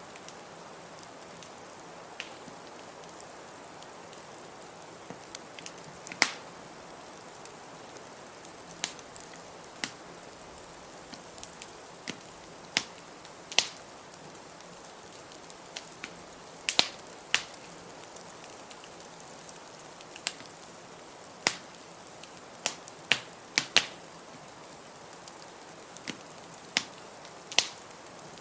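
Wood fire crackling in a fireplace, with sharp, irregular pops every second or so, over a steady hiss of blizzard wind.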